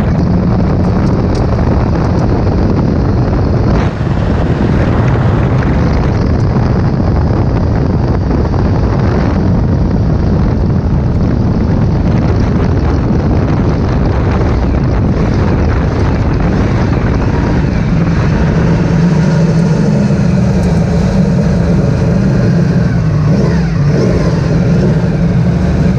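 Porsche 917/10 Can-Am car's turbocharged flat-twelve running on track, heard through heavy wind buffeting on a helmet-camera microphone. A steady engine note stands out more clearly in the last several seconds.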